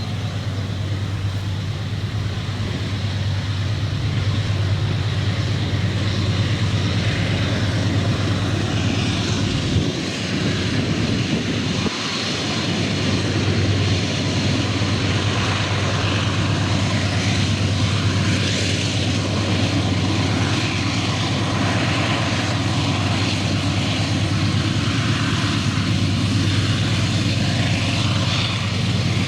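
Diesel locomotive of a passing freight train running steadily, a low engine drone with wheel and rail noise over it.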